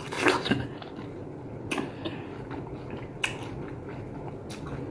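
A person biting into and chewing a piece of yellow plum, with a handful of short, wet mouth clicks spread across the few seconds.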